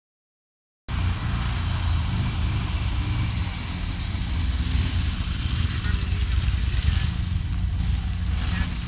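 Steady vehicle engine and road noise with a heavy low rumble, starting suddenly after about a second of silence.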